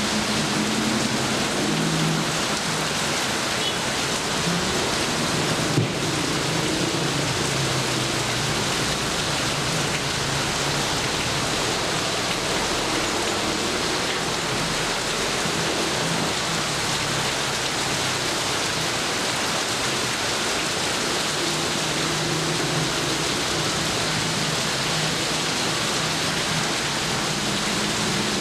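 Steady heavy rain falling and pattering on surfaces, with low rumbles of distant thunder coming and going underneath. A single sharp tick about six seconds in.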